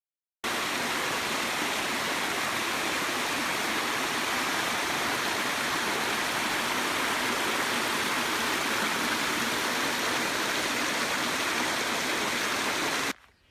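Steady rush of water from a creek waterfall, starting abruptly and cutting off abruptly near the end.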